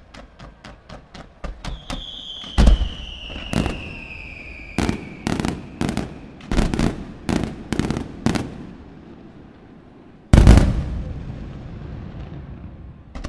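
Fireworks display: a quick run of small pops, then a falling whistle over a series of about ten sharp shell bursts. About ten seconds in comes the loudest boom, which trails off in a long rolling echo.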